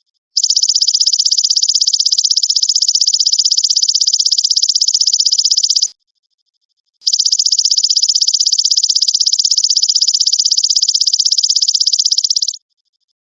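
Belalang emas (golden grasshopper) song used as a tutor recording for songbirds: a high, fast-pulsing buzzy trill in two long phrases of about five and a half seconds each, with a pause of about a second between them.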